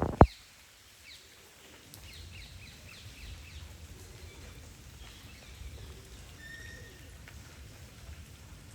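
Birds chirping in quick, repeated calls over a low, steady rain ambience, with two sharp knocks right at the start.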